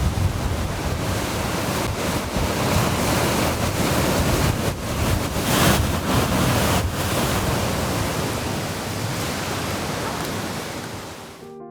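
Surf breaking on a beach in strong wind, with wind rumbling on the microphone; the sound fades out near the end.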